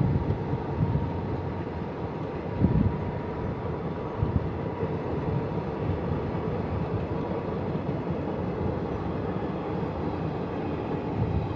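Passenger train coaches rolling past on the track: a steady rumble of wheels on rails, with a faint steady whine and a few brief low thumps.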